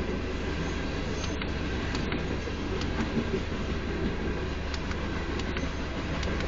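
Freight train of tank cars rolling past: a steady rolling noise of steel wheels on rail, with scattered faint clicks.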